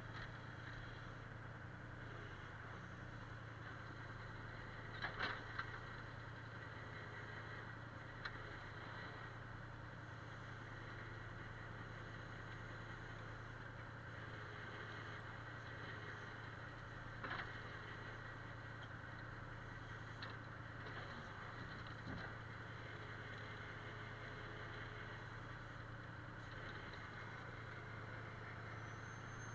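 Faint engine running steadily at a constant low speed, with a few light knocks or clicks, the loudest a quick cluster about five seconds in.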